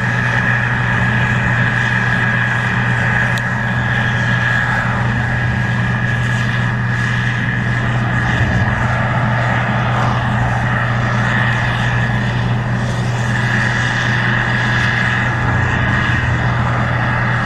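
Case IH 2144 Axial-Flow combine running steadily while harvesting corn: a constant low engine drone with a steady high whine above it.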